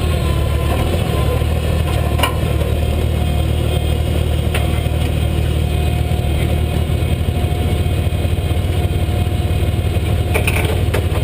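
International farm-stock pulling tractor's diesel engine running steadily, a deep even drone.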